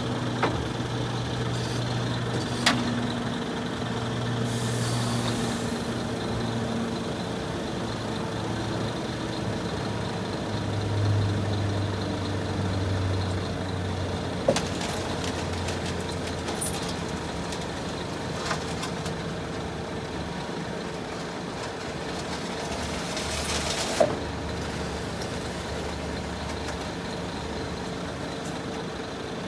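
Scania R480 concrete mixer truck running, a steady low engine hum that shifts pitch a few times. There are two short hisses of released air, about five seconds in and near the end, and a few sharp clicks.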